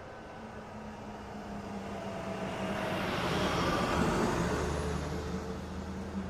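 Pickup truck driving by: a steady low engine hum and road noise that grow louder toward about four seconds in, then ease off.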